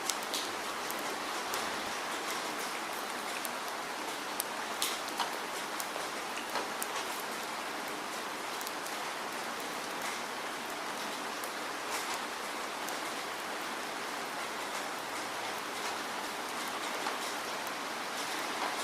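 Steady rain falling, an even hiss with many distinct drops ticking sharply on a surface.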